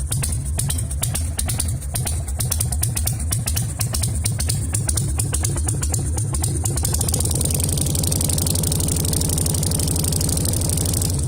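Carbureted Harley-Davidson V-twin idling with its uneven 'potato' beat of low firing pulses. About seven seconds in the engine speed picks up slightly and the pulses come faster and more even.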